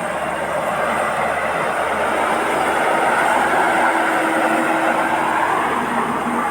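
Rice combine harvester running steadily while harvesting, a loud, even mechanical noise with a steady hum that comes in about two seconds in and fades near the end.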